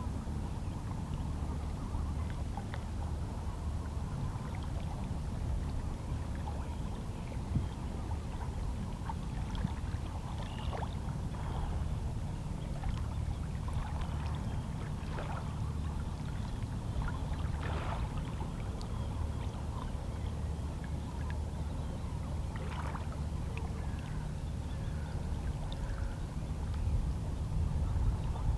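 Small waves of a calm sea lapping and gurgling against shoreline rocks over a steady low wash, with a few brief splashes in the middle stretch.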